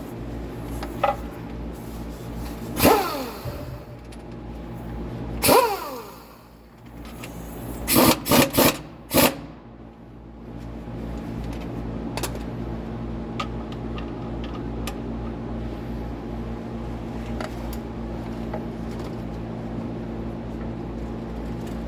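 A steady machine hum, like an engine idling, with loud sudden noises about three and five and a half seconds in, each falling in pitch. A quick run of four sharp loud bursts follows near the middle, then occasional light clicks.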